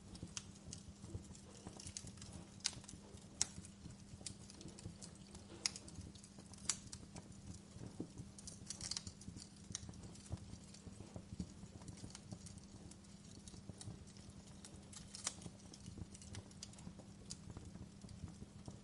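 Wood fire in a fireplace crackling: irregular sharp pops and snaps over a low, steady background, with a couple of louder snaps about three seconds in.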